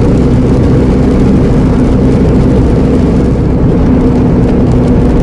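Iveco Eurocargo lorry's diesel engine and road noise heard from inside the cab while driving: a steady, loud drone with a constant low hum.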